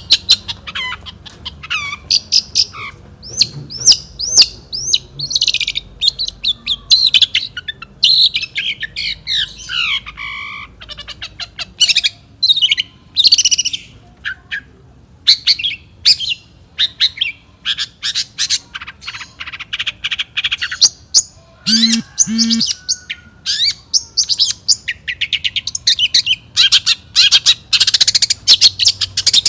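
Long-tailed shrike (cendet) singing a fast, varied song of chirps, whistled glides and harsh squawks, with hardly a pause.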